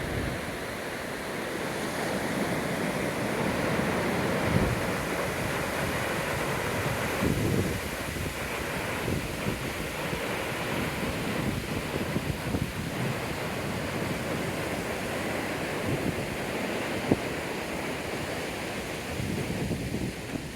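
Ocean surf washing steadily on a beach, with wind buffeting the microphone in irregular gusts.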